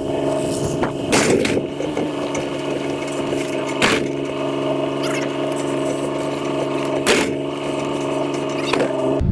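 Engine running at a steady pitch, with a few sharp knocks over it.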